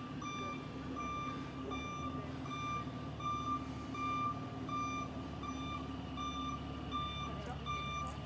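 Tow truck's reversing alarm beeping steadily as it backs up, about three beeps every two seconds, over the truck's engine running.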